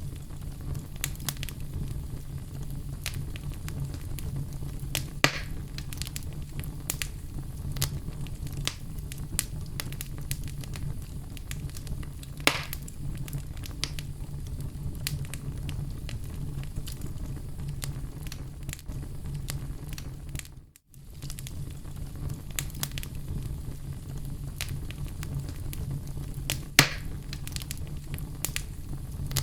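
Oak logs burning in a fireplace: a steady low rumble of flame with frequent small crackles and three sharper pops, about five, twelve and twenty-seven seconds in. The sound drops out for a moment about twenty-one seconds in.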